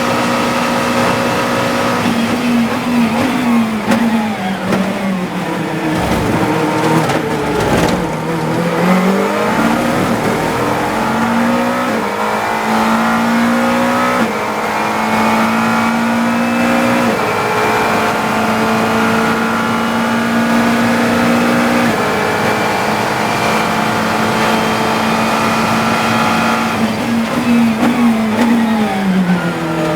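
GT3 race car engine heard onboard: it changes down through several gears under braking in the first seconds, then pulls through a series of upshifts with the pitch climbing in steps, holds high on the throttle, and changes down again near the end.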